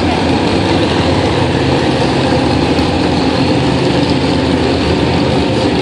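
A pulling truck's engine running loud and steady, holding an even pitch.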